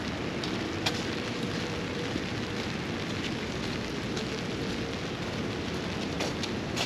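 Steady rain falling, heard as an even hiss, with a few sharp drip-like ticks: one a little under a second in and several near the end.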